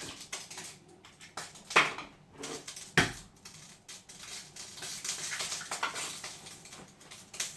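Eggs cracked on the edge of a bowl, two sharp knocks about two and three seconds in, then a few seconds of quick light clatter of the eggs being mixed into the milk in the bowl.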